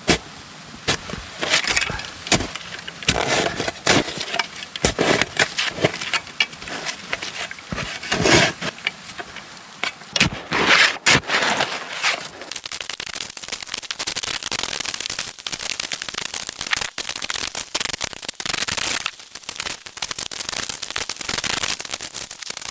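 Crunching snow and rustling tarp as a winter tarp shelter is handled and pegged down, in irregular crunches and scrapes. From about halfway it gives way to a denser, steadier crackling.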